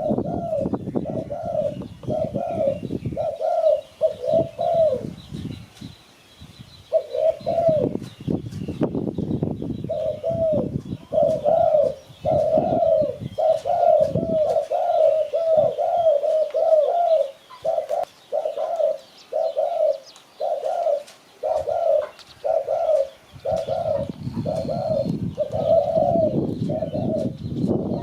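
Spotted doves cooing: a long run of short, arching coo notes, about two a second, with a brief pause a few seconds in. A low rumbling noise sits under the calls in stretches near the start and end.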